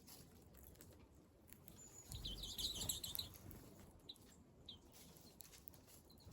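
Small wild birds calling faintly: a quick burst of high twittering chirps about two seconds in, then two short single chirps.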